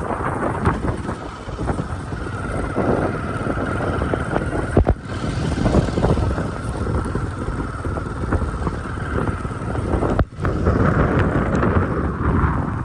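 Wind buffeting the microphone over the steady rumble of a vehicle on the move, with a brief dropout about ten seconds in.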